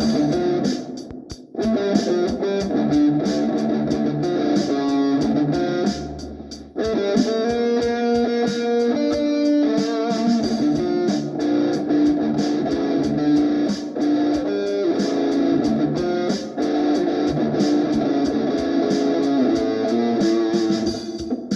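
Electric guitar played through a Valeton GP-200 multi-effects processor, improvising a run of single notes and phrases over an evenly spaced ticking beat. The playing drops out briefly twice, about a second in and about six seconds in.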